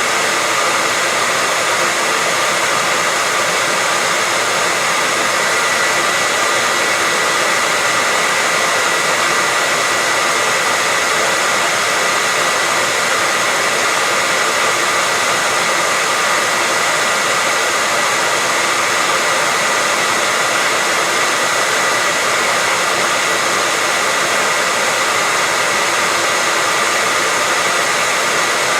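Hair dryer blowing steadily, a continuous rush of air with a steady whine, used as white noise to lull a baby to sleep.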